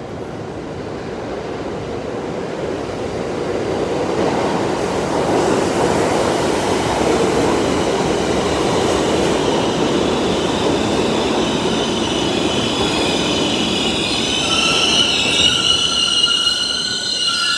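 R62A subway train pulling into the station: the rumble of its wheels on the rails grows louder over the first few seconds and holds steady. About three-quarters of the way through, high-pitched squealing sets in and continues as the train slows.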